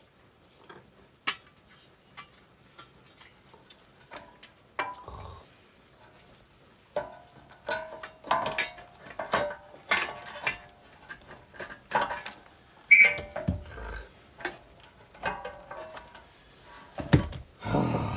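Irregular metallic clinks, taps and knocks of hand tools and metal parts being handled while working on a riding mower. They are sparse at first and come thick and louder about seven seconds in.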